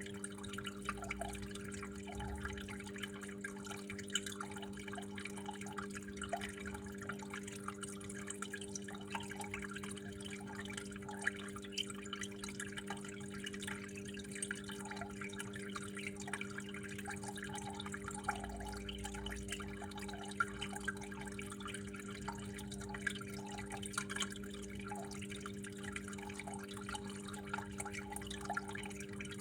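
Water flowing and dripping steadily, with frequent small irregular drips and splashes, over a steady low hum.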